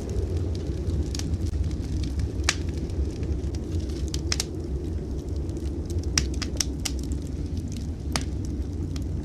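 Wood fire crackling in a fireplace: scattered sharp pops and snaps, a few louder ones, over a steady low rumble.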